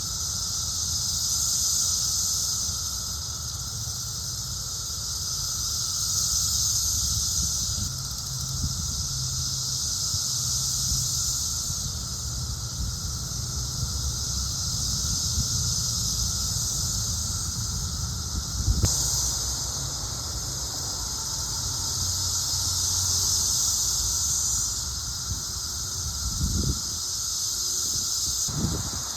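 Chorus of 17-year periodical cicadas: a continuous high-pitched buzzing that swells and fades in waves every few seconds.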